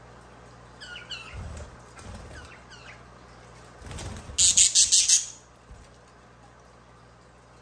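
Budgerigar chirping: a run of short, falling chirps. About four and a half seconds in comes a loud, harsh, pulsing burst lasting under a second.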